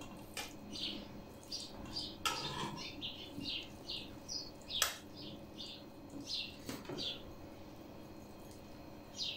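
A small bird chirping again and again in short, high notes. A few sharp clinks of metal spoons against a pot and plates come in between.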